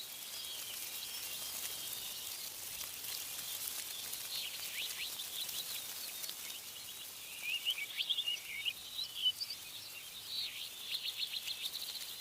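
Birds chirping and trilling in short, quick notes that grow busier in the second half, over a steady high hiss.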